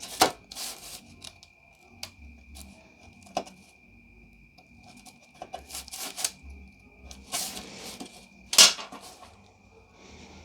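A scalpel cutting and scraping dried fondant away from a brittle, oven-dried edible image: a string of short scrapes, crackles and clicks, the loudest near the end.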